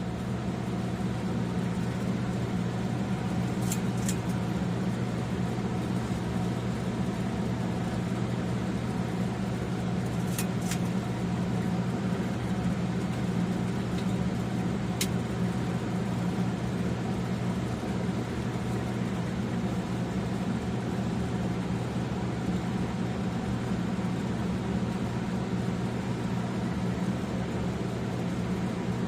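Casablanca Zephyr 13-inch ceiling fan running: a steady motor hum with air noise. A few faint ticks come about four, ten and fifteen seconds in.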